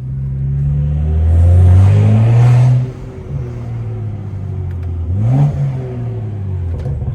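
BMW 335i E92's N55 turbocharged straight-six with a straight-piped exhaust, accelerating hard with its pitch climbing for nearly three seconds, then dropping off sharply as the throttle is lifted. It then runs at a steadier drone, with one brief rev rising and falling about five seconds in.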